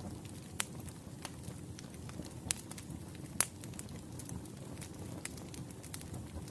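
Firewood campfire burning: a steady low rumble of flames with scattered sharp crackles and pops, the loudest pop about three and a half seconds in.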